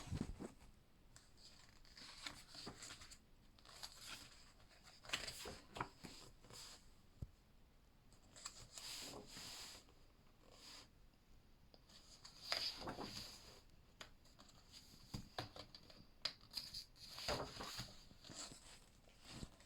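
Book pages being turned and handled, paper swishing and rustling in irregular short sweeps, several times.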